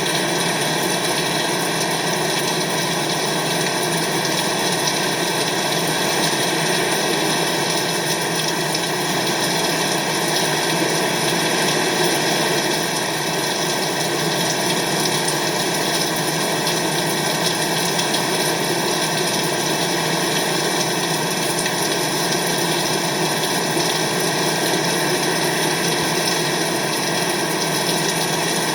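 Steady heavy rain: an even, unbroken rushing hiss with no separate drops or changes.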